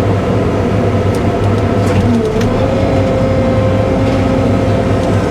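Cat 313 excavator's diesel engine running under load, with a hydraulic whine that steps up in pitch a little over two seconds in and then holds as the arm works, and a few light knocks of debris.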